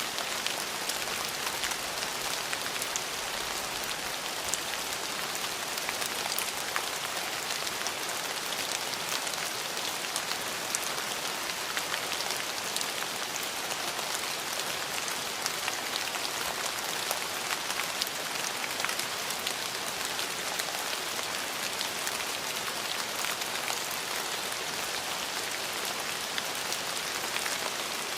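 Steady rain falling on a surface, a dense even hiss sprinkled with many small drop ticks.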